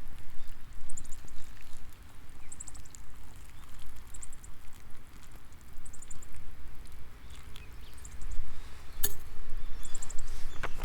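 High, short chirps from an insect, each a quick cluster of pulses, repeating about every second and a half over a steady low rumble. A sharp click comes about nine seconds in.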